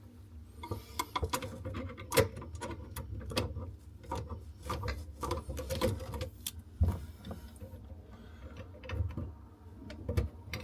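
Hand tools working on a basin tap's fittings: irregular metal clicks, knocks and scraping as the tap is undone, with the sharpest knocks about two seconds in and near seven seconds.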